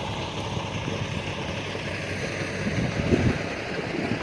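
Steady outdoor rumble of wind and vehicle noise, with a low rumble that swells briefly about three seconds in.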